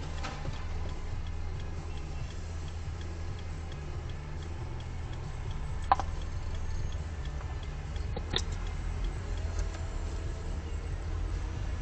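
Steady low vehicle engine rumble with a light ticking about three times a second, and two sharp clicks, one about six seconds in and another a little past eight seconds.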